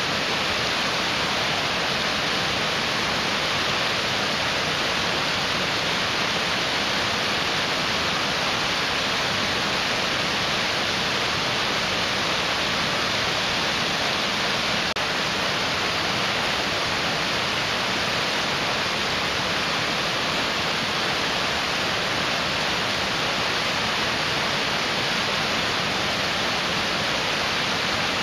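Mountain stream rushing over rocks: a steady, unbroken hiss of fast-flowing water.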